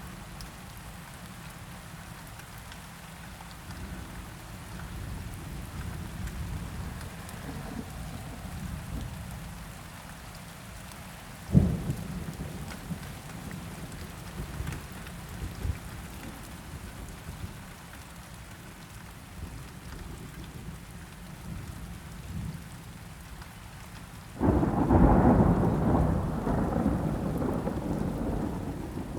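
Steady rain with thunder. A sharp crack comes about a third of the way in, and a loud rolling thunderclap breaks near the end and slowly dies away.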